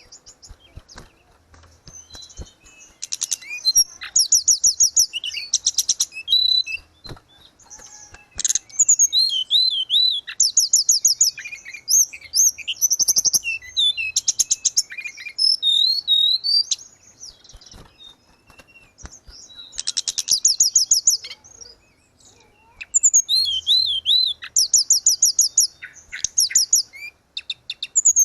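Tledekan gunung (hill blue flycatcher) singing in repeated phrases: rapid high trills alternating with looping, warbling whistled notes, broken by short pauses.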